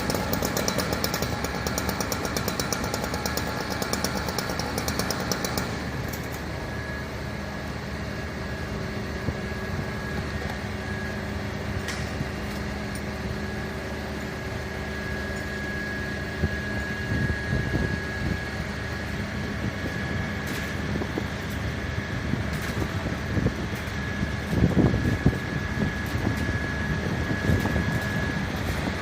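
A fire-engine motor running steadily with a thin, steady high-pitched whine; the sound drops and changes about six seconds in, with a few knocks later.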